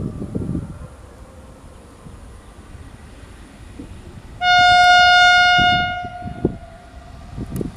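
A rail vehicle's horn sounding once, a single steady note held for about a second and a half around the middle, over low irregular rumbling and knocks.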